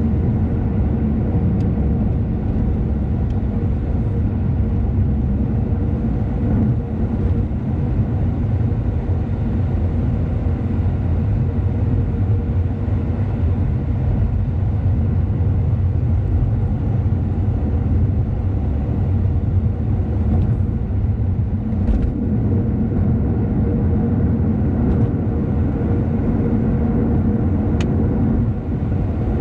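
Car driving along a road: a steady low rumble of engine and tyre noise with a faint steady hum above it, and a few faint clicks.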